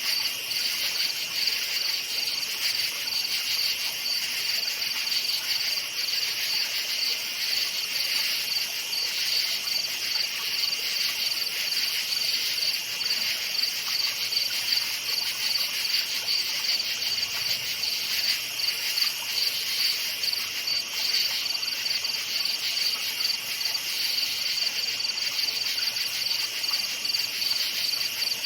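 Crickets chirping in a dense, steady chorus: a high-pitched, rapidly pulsing trill that never pauses.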